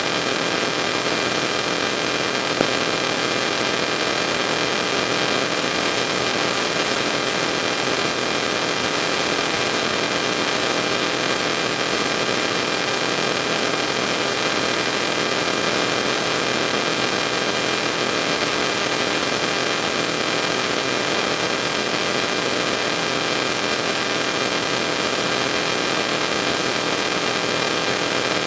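Steady hiss with a faint hum and a few thin high whines, unchanging throughout: electrical or room noise on the recording with nothing else happening.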